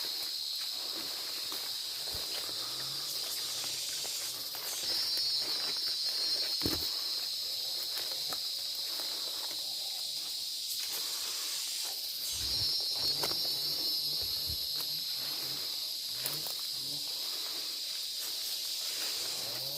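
Chorus of forest insects, a steady high-pitched shrill drone that swells louder about five seconds in and again about twelve seconds in, with scattered faint thuds and rustles below it.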